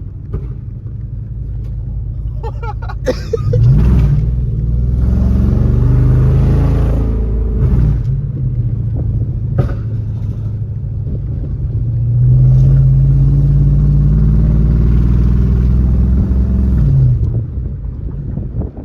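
Car engine accelerating hard twice: it climbs in pitch and loudness from about three seconds in until it eases off around eight seconds, then pulls loudly again from about twelve seconds until it lets off near the end. There is a single sharp click in between.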